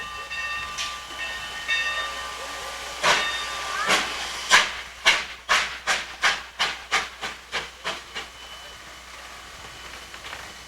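Steam locomotive sounding its chime whistle, then starting away with sharp exhaust chuffs that come quicker and quicker as it picks up speed, fading into a steady steam hiss.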